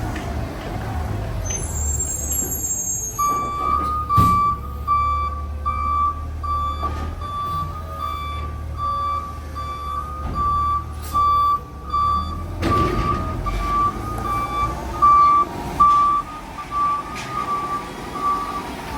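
Garbage truck reversing: its backup alarm beeps steadily, a little over once a second, starting about three seconds in, over the low running of the diesel engine.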